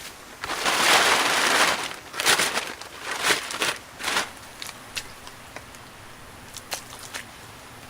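Dry brush rustling and crunching in several bursts: one long burst, then three shorter ones, followed by scattered light clicks and snaps.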